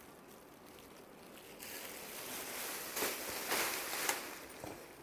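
Dresses being handled: cloth rustling and swishing. It starts about a second and a half in, with a few louder swishes near the middle.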